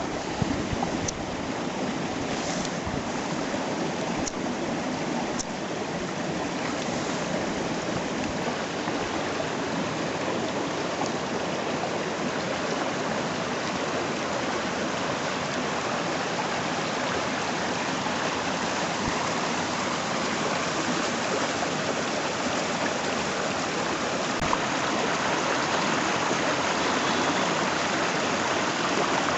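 A river or stream rushing steadily, with a few faint clicks in the first few seconds.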